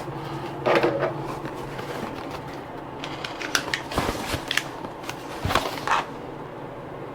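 Hands handling a plastic 3D-printer filament spool: scattered light clicks, knocks and a short rustle, over a steady low hum.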